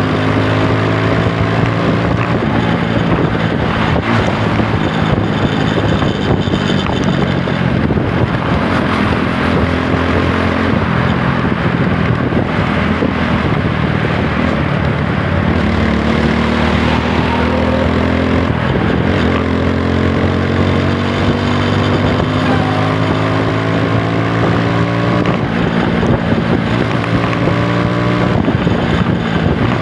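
Single-cylinder engine of a TVS Apache 160 4V motorcycle running under way, its pitch climbing repeatedly as it accelerates through the gears.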